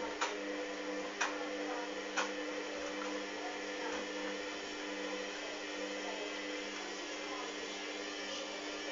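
Hoover washing machine running with a steady motor hum, with three sharp knocks about a second apart in the first few seconds.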